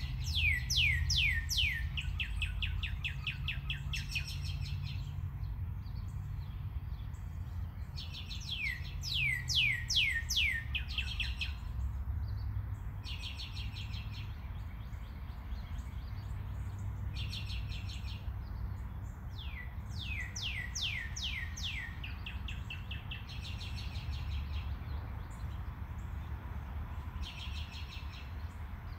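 A bird singing: phrases of quick downward-sweeping whistles that run into trills, repeating every several seconds, over a steady low hum.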